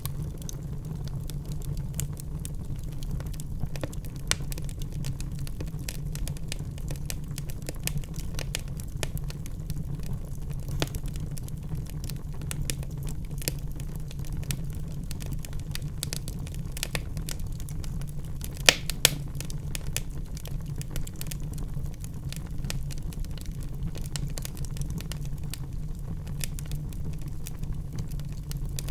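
Wood fire in a fireplace crackling: a steady low rumble with frequent small pops and snaps, and two louder pops in quick succession about two-thirds of the way in.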